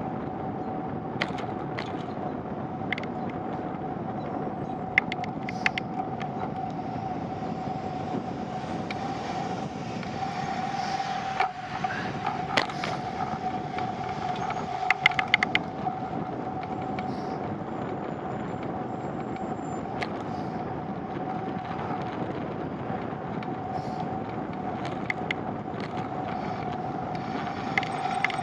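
Steady rolling noise of a bicycle ride, with a constant mid-pitched hum and scattered sharp clicks and taps, several in quick clusters.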